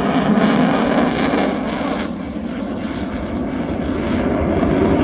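Twin-engine Su-30 fighter jet flying its display, with loud jet engine noise. The sound eases a little about two seconds in and builds again toward the end.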